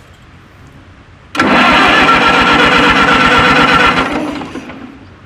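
Minneapolis-Moline tractor engine being cranked by its electric starter: a sudden start about a second in, a steady starter whine over a quick, even chugging of the engine turning over, stopping after about two and a half seconds and fading out.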